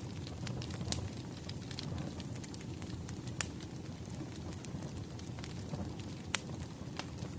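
Wood fire crackling: a steady low rumble with scattered sharp pops, the loudest about three and a half seconds in.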